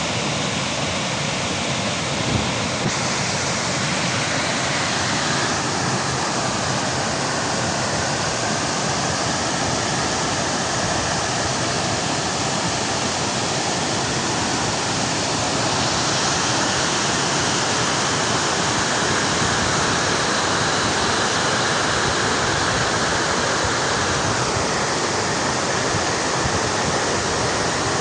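Rushing water, a steady, even roar like a waterfall or fast stream running without a break.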